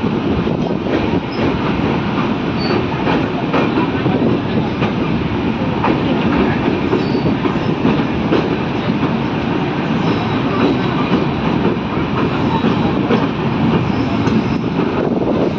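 A train running on the track: a loud, steady rumble with the quick clatter of the wheels over the rails.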